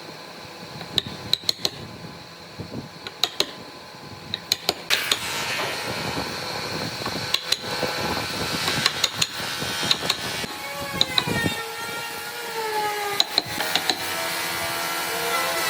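Workshop tool sounds: a series of sharp taps and knocks, joined about five seconds in by a running power tool whose whine slides down in pitch and comes back again.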